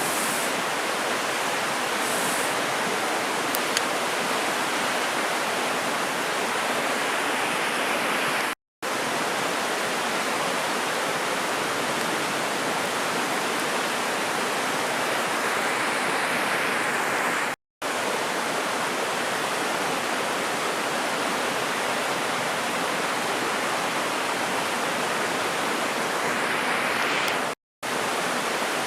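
Mountain river rushing steadily over rocks, an even, unbroken wash of water noise that cuts out for a split second three times.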